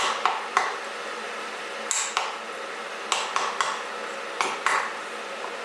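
Sharp metal knocks and clinks, about ten in all and mostly in quick pairs, as the parts of a hand coffee grinder and espresso press are tapped and set down.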